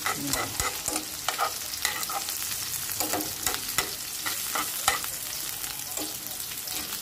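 Sliced mushrooms sizzling as they fry in a pan, with a steady hiss and now and then a sharp click as the tongs turn them against the pan.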